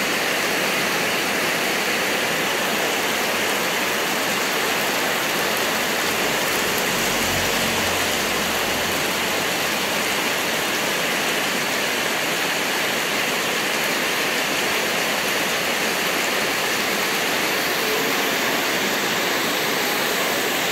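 Heavy downpour: a dense, steady hiss of rain pouring onto the road and ground.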